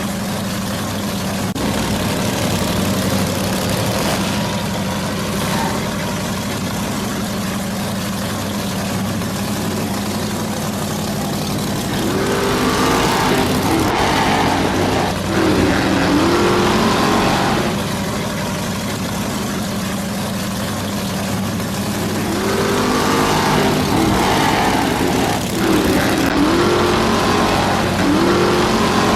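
A motor revving up again and again over a steady low drone, each rev a short rising whine, starting about halfway through.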